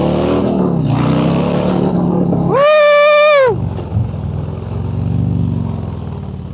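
Motorcycle engine revving hard under acceleration, its pitch rising and dropping, with wind rush over the helmet microphone. A loud, held shout of "Woo!" about two and a half seconds in.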